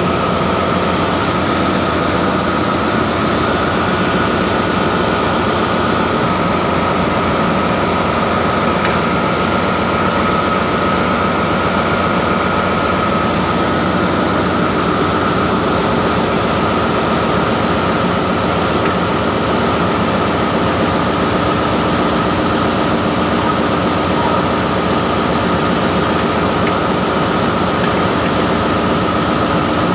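Ship's engine-room machinery running steadily: a loud, even engine drone with a steady high tone in it that does not change.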